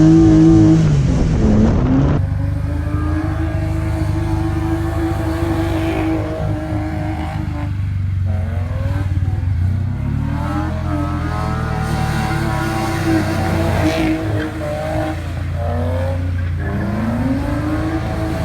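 BMW E36 engine revving hard while drifting. The revs hold high, then dip and climb back again several times, about eight seconds in and again near the end.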